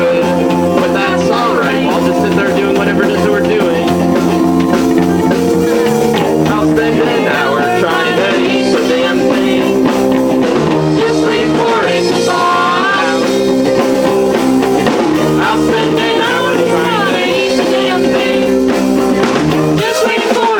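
Live rock music: guitar chords held over changing bass notes in an instrumental stretch with no singing.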